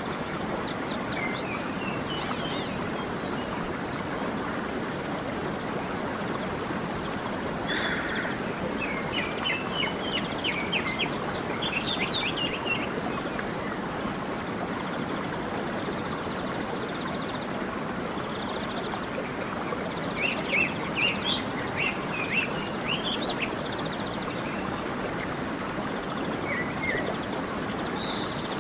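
A stream rushing steadily, with songbirds chirping over it in short bursts, busiest about a third of the way in and again about two-thirds of the way in.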